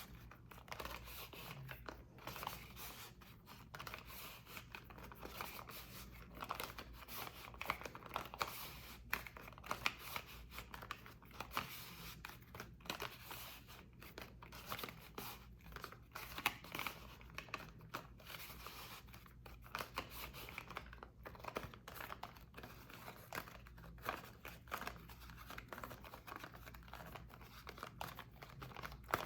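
Bar soap being worked by hand for ASMR: a continuous run of small, crisp crackling, scraping and crunching sounds with irregular sharper snaps and no steady rhythm.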